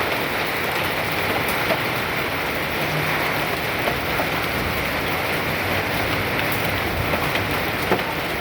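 Hail pelting down: a dense, steady hiss of hailstones striking surfaces, with a few sharper knocks from single stones scattered through it.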